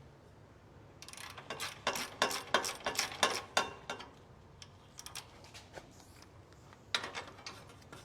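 Light metallic clicking and clinking: a quick, irregular run of it for about three seconds starting about a second in, then a few scattered clicks.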